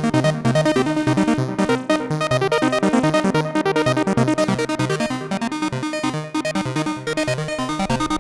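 Eurorack modular synthesizer playing a fast sequence of short, plucked-sounding notes several times a second, from a Braids-clone macro oscillator on an Expert Sleepers Disting EX, each note shaped by an envelope and repeated by Make Noise Mimeophon delay echoes.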